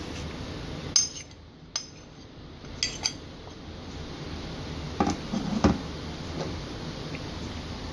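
Kitchen utensils and dishes clinking: a few sharp knocks about a second in and near three seconds, then a quick cluster around five to six seconds, over a steady background hiss.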